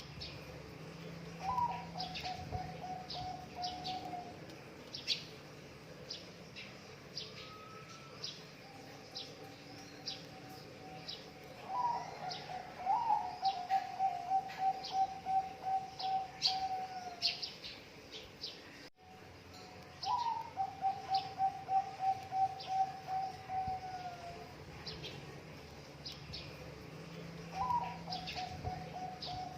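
Zebra doves (perkutut) cooing: four phrases, each a short rising note followed by a fast, even run of staccato coos. Small birds chirp high and briefly throughout.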